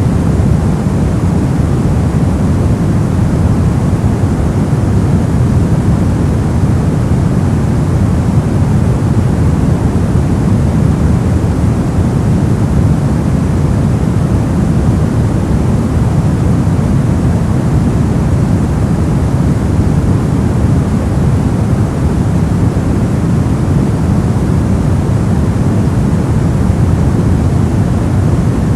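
Steady, unbroken noise of the kind sold as white noise for sleep. It is heavier in the low end than in the highs, so it sounds deep rather than hissy.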